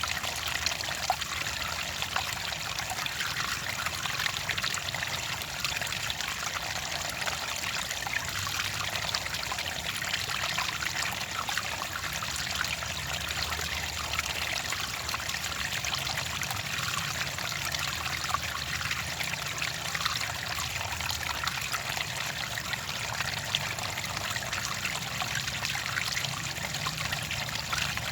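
Clear water trickling and splashing steadily, like a small stream or a pour running over stones.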